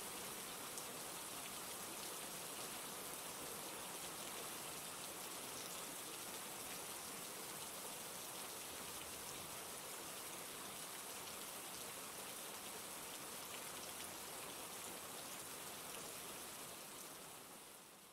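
Steady rain falling in a dense patter of drops, fading out over the last couple of seconds.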